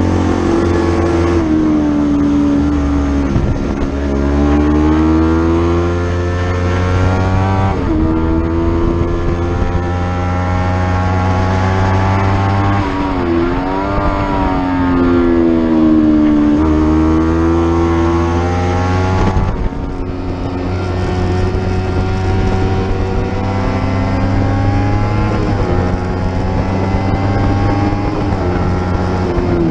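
Racing motorcycle engine at full throttle on track, climbing in pitch through the revs and dropping back several times as it shifts gear, with a dip and wobble near the middle where it slows and picks up again.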